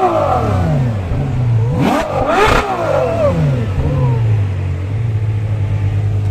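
Supercar engine revved in sharp blips: a rev falling away at the start, two more quick blips about two seconds in, then settling back to a steady idle.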